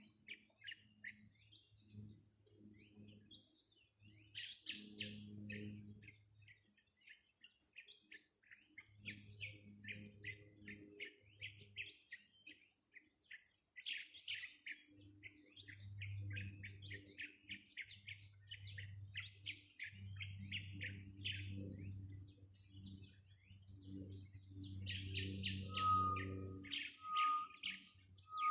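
Small birds chirping and twittering in a dense, continuous chorus. A low hum comes and goes underneath. Near the end a short, clear whistled note repeats about once a second.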